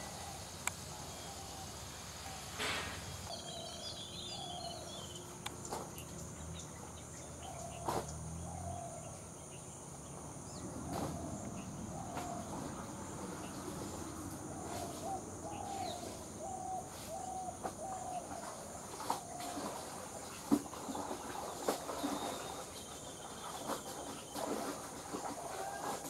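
Outdoor birdsong ambience: a bird gives series of short, low, repeated call notes, thickest in the middle of the stretch, over a steady high hiss, with a few scattered sharp clicks.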